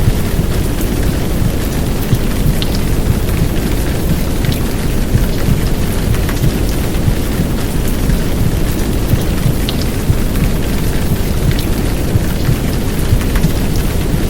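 Heavy downpour rain: a steady rushing hiss with scattered drops ticking, layered over a deep, continuous low rumble of womb-sound noise.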